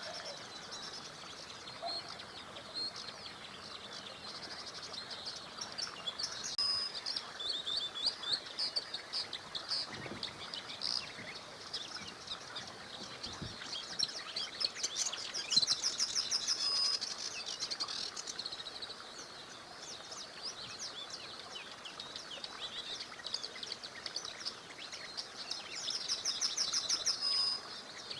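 Several small songbirds singing and chirping, with bursts of fast trills, over faint running water.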